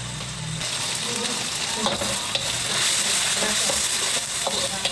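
Ginger and cumin spice paste sizzling in hot oil in a wok while a spatula stirs it, with a few light scrapes and knocks of the spatula against the pan.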